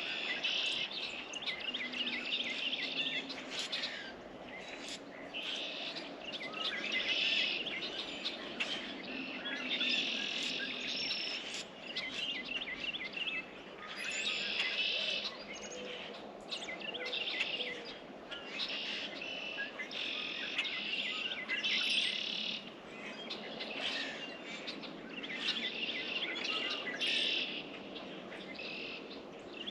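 Small songbirds singing in repeated high, warbling and twittering phrases, each a second or few long, with short pauses between.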